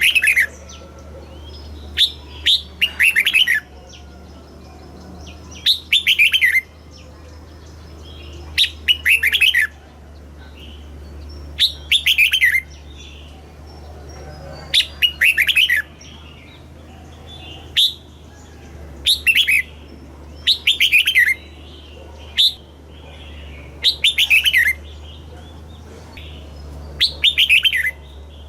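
Red-whiskered bulbul singing: short, bright phrases of quick descending notes, repeated every two to three seconds, over a steady low hum.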